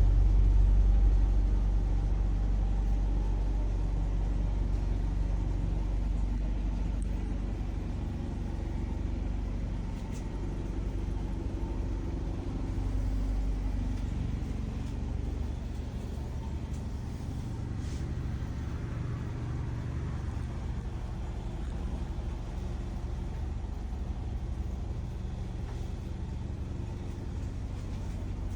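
An engine running at a steady idle, a low even rumble that eases slightly after the first couple of seconds.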